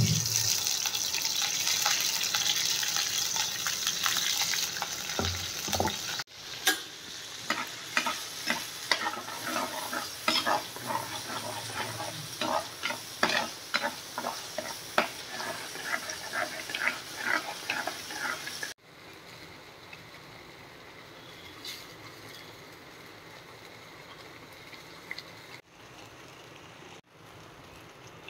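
Ground masala paste hitting hot oil in a clay pot with a loud sizzle. After a cut, a steel spoon stirs and scrapes the frying paste against the pot, giving many quick clicks over the sizzle. Near the end only a quieter, steady sizzle is left.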